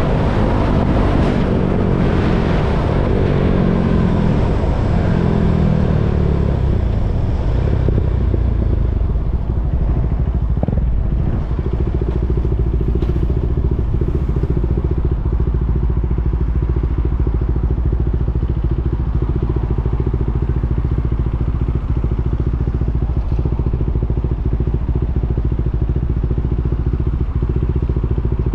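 KTM Duke 390's single-cylinder engine: the revs fall away over the first several seconds, then it settles into a steady idle for the rest of the time.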